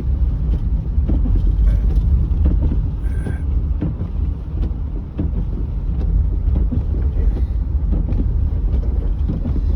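Steady low rumble of a car's road, tyre and engine noise heard inside the cabin while driving through snow, with a few faint light ticks.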